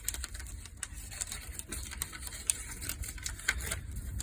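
Cigar packaging being handled and opened by hand: irregular small clicks and paper crackles over a low rumble.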